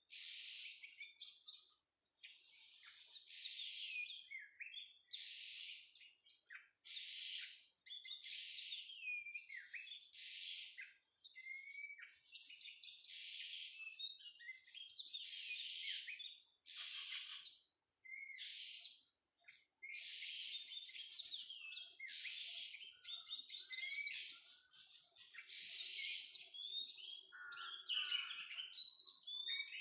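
Oriental magpie-robin (kacer) singing: a continuous run of short, varied whistled phrases about a second long each, coming one after another. A faint steady high tone sounds underneath.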